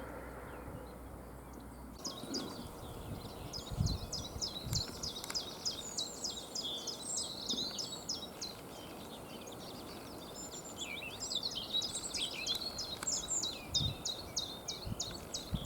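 A songbird singing two long, rapid phrases of high chirps and trills, starting about two seconds in, over a steady low background hiss, with a few brief low thumps.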